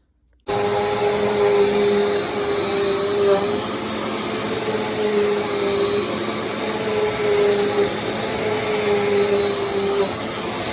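Bissell CleanView Compact upright vacuum (model 3508) running steadily, a rush of air with a steady whine over it. It starts abruptly about half a second in.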